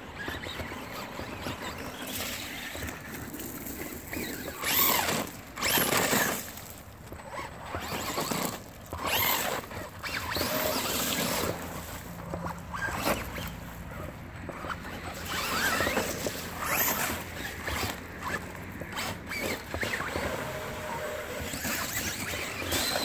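Traxxas Rustler VXL RC trucks' brushless electric motors whining in irregular bursts of throttle, rising and falling in pitch, as their tyres spin and churn through mud and muddy water.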